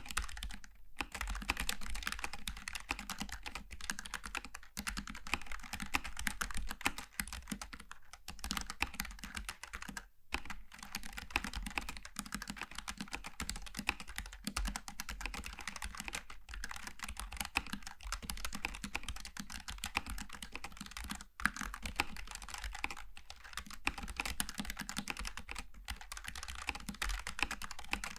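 Typing on a Logitech G915 TKL low-profile mechanical keyboard with tactile switches: fast, continuous key clicks with a few brief pauses.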